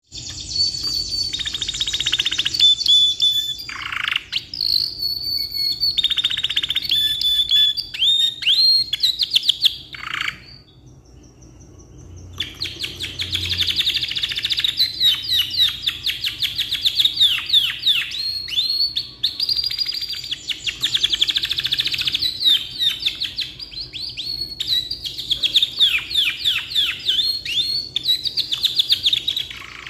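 Domestic canary singing a long, continuous song of rapid rolling trills and quick sweeping notes, breaking off for about two seconds roughly a third of the way through before resuming.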